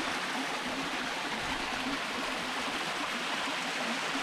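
Running water rushing steadily, a constant even hiss of a stream.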